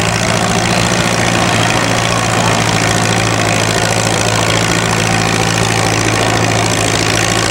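Antique tractor engine running at a steady pitch under load while pulling in a tractor pull, a steady low drone under a dense mechanical clatter.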